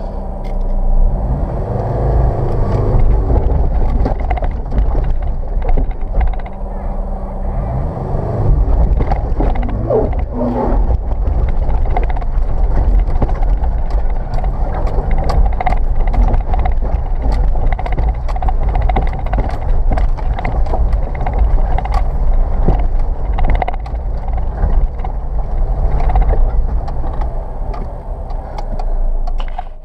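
First-generation Subaru Forester's flat-four engine working steadily under load at crawling speed up a rocky climb, heard from inside the cabin, with frequent sharp knocks and clunks from the wheels and body jolting over rocks.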